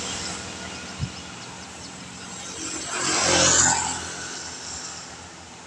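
A vehicle passes on a wet road, its tyres hissing through the water, swelling to its loudest about three and a half seconds in and then fading, over a steady hiss of rain. A short knock sounds about a second in.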